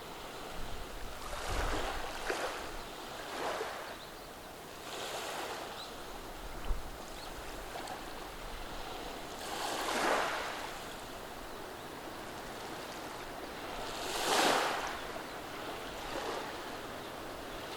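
Gentle waves on a beach of rounded stones, washing in and drawing back as a hiss that swells and fades every few seconds, the biggest washes about ten and fourteen seconds in. A brief low bump comes just before seven seconds in.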